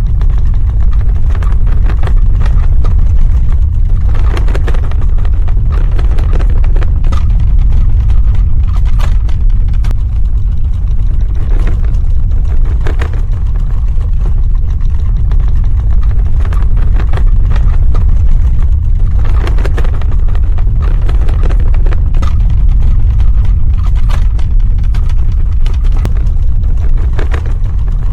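Earthquake sound effect: a loud, deep, continuous rumble with clusters of crackling and rattling every few seconds.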